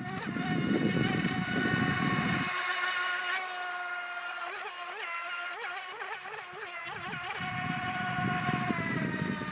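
Modified Feilun FT009 RC speedboat's brushed 540 21-turn motor on 3S whining as the boat runs, its pitch wavering up and down repeatedly and sliding lower near the end. A low rushing sound underneath drops away for a few seconds in the middle.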